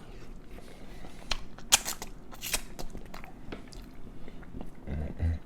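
A person chewing and biting food close to the microphone, with a few sharp crunchy clicks, then a few low thumps near the end.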